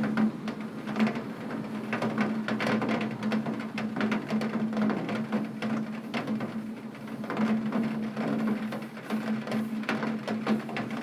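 Heavy rain striking a window pane: a dense, irregular patter of drop impacts over a steady low hum.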